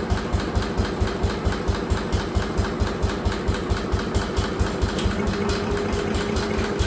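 Allis Chalmers B210 garden tractor engine being cranked over with a steady rhythm of about five compression strokes a second, not firing: it will not start even with a little choke.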